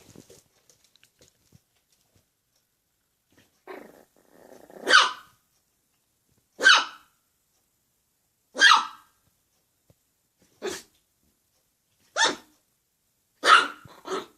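A dog barking in play: a short low growl about four seconds in, then about seven sharp single barks, one every second and a half to two seconds.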